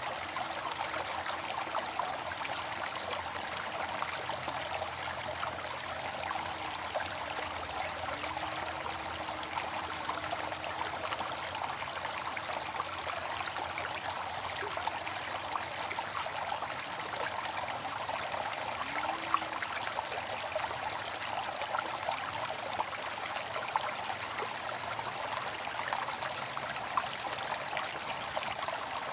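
Water fountain splashing and trickling steadily, a dense, even patter of falling water.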